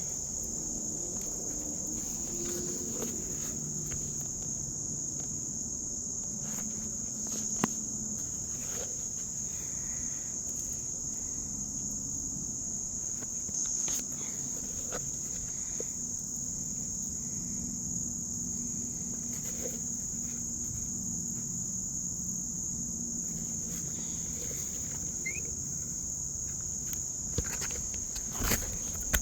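Steady, high-pitched insect chirring, with a few brief ticks and knocks from handling soil.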